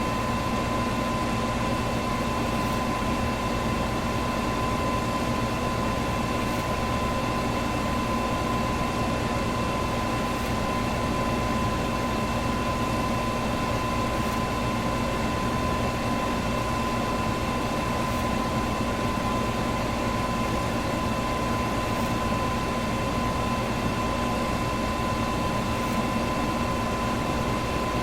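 Electric fan running steadily: an even rushing of air with a constant hum and a thin steady whine on top.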